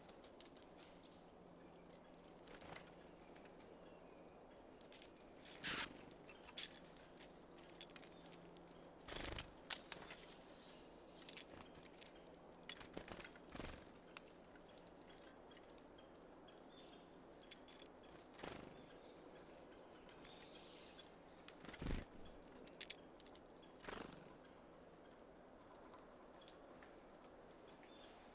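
Small wild birds at a seed feeder: scattered sharp taps and flutters as they land and work at the seeds, about seven in all, with faint high chirps over a near-silent cold-morning background.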